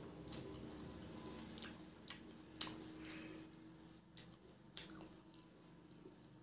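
Faint wet chewing of a mouthful of pani puri, with about six sharp wet mouth clicks and smacks in the first five seconds.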